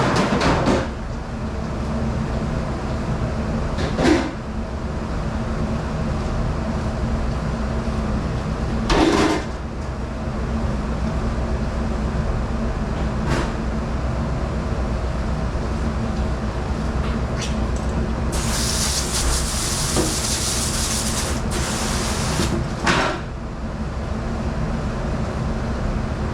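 Kitchen dishwashing in a commercial dish room: a steady machine hum with occasional sharp clatters and knocks of dishes or racks, and a hiss lasting about three seconds a little past the middle.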